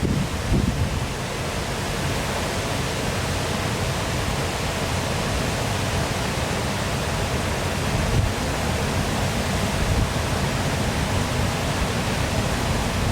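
Waterfall running: a steady, even rush of falling water, with a few low rumbles near the start.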